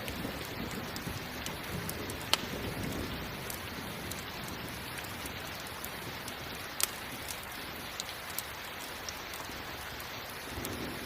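Steady rain falling, with a few sharp pops from a crackling campfire, the loudest a little after two seconds in and near seven seconds in.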